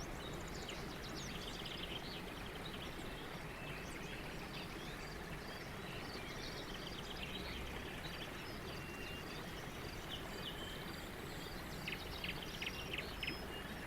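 Birds twittering softly over a faint steady background hiss, many short high chirps, with a quicker cluster of sharper chirps near the end.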